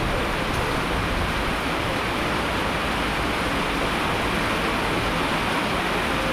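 Steady, dense rain noise without distinct drops or any other events.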